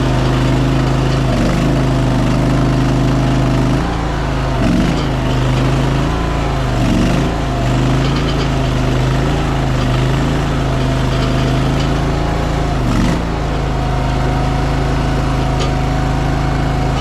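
Small gasoline engine of a Chinese mini skid steer running at full throttle, its pitch dipping briefly several times as the machine is driven and its boom worked, loading the engine through the hydraulics.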